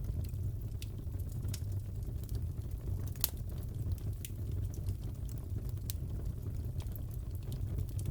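Crackling fireplace: a steady low rumble of burning with scattered sharp pops and snaps, the loudest pop about three seconds in.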